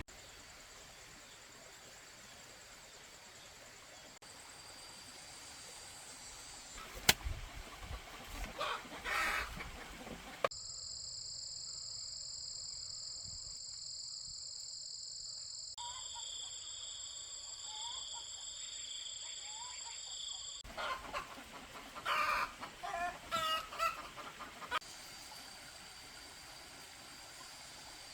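Chickens clucking in two short spells of calls, with a sharp click a little before the first. Between them, a steady high-pitched ringing sound holds for about ten seconds.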